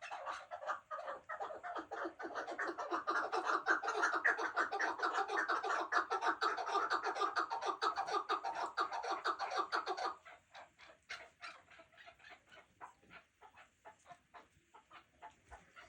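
White chukar partridge calling: a fast, continuous run of clucking notes that stops abruptly about ten seconds in, followed by fainter scattered notes.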